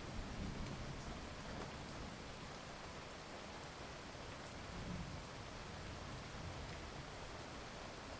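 Heavy rain falling steadily, with low rumbles of distant thunder, one swelling briefly about five seconds in.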